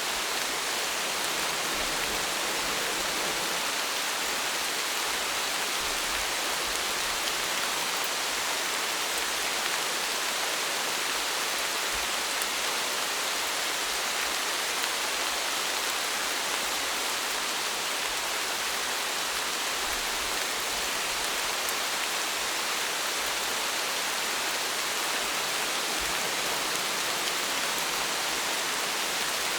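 Steady rainfall, an even hiss of drops with faint individual patters, unchanging in strength throughout.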